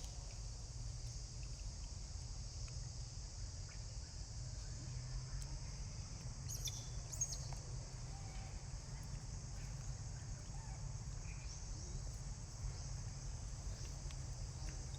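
Steady high-pitched drone of insects with a low rumble underneath, and a few short clicks about halfway through.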